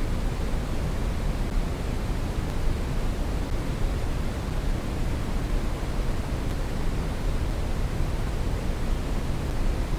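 Brown noise: a steady, even rushing hiss weighted toward the low end, with no changes.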